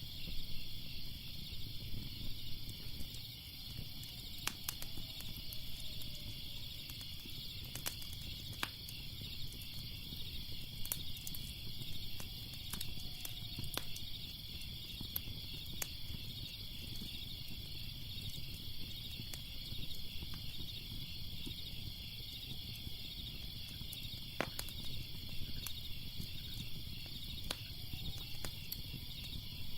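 Crackling fire with scattered sharp pops over a steady low rumble, and crickets chirping steadily alongside.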